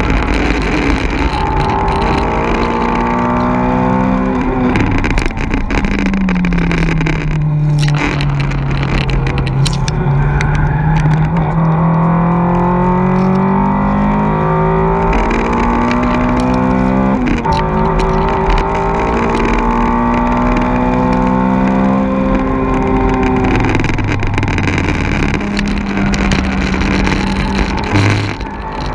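A car's four-cylinder engine driven hard on a race circuit, heard from inside the cabin: the revs climb and fall through gear changes and braking, with a sharp drop about five seconds in followed by a long, slow climb, and another quick change about seventeen seconds in.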